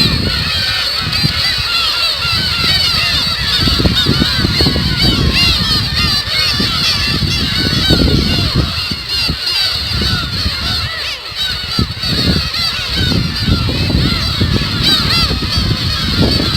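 A large colony of black-tailed gulls (umineko) calling, many mewing, honk-like cries overlapping continuously, over a low rumbling noise.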